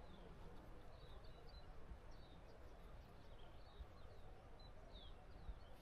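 Faint outdoor ambience with small birds chirping: short high chirps every second or so over a low background rumble.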